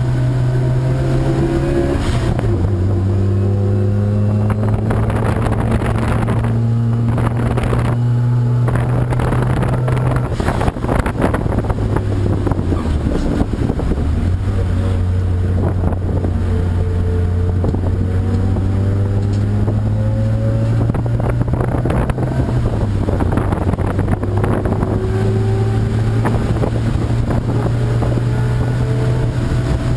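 Race car engine running, its pitch shifting up and down in steps, dipping lowest about halfway through.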